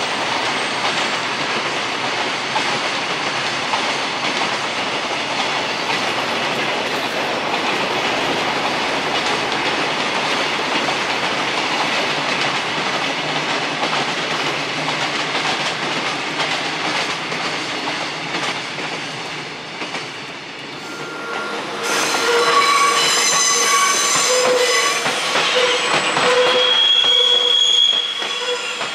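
Freight train departing, its wagons rolling past with a steady, dense rumble and clatter of wheels on rail. About 22 seconds in, this changes abruptly to railway wheels squealing on yard track, several high steady squeal tones sounding together.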